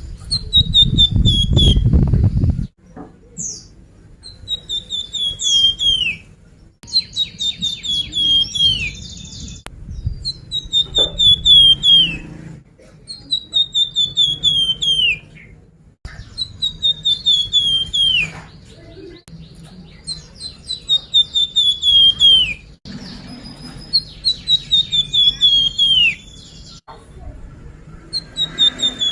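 Song of a bird sold as 'flamboyan', used as a lure call. A quick run of chirping notes slides down in pitch and ends in a sharp downward flick. The phrase repeats about every three seconds. A low rumble sits under the first couple of seconds.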